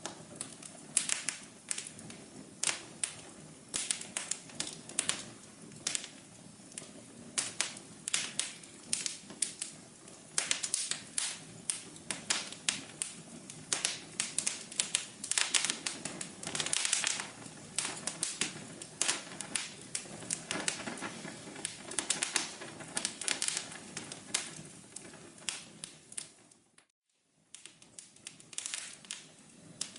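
Fireplace fire crackling, with irregular sharp pops and snaps over a steady low hiss. The sound drops out briefly near the end, then resumes.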